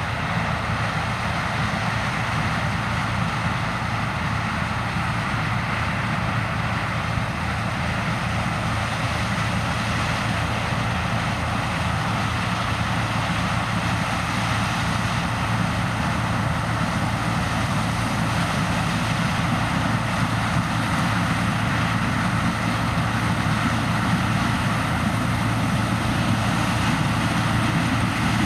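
Heavy diesel engine of farm harvesting machinery running steadily at work in a corn harvest, with a constant low hum under a broad mechanical rush that grows a little louder near the end.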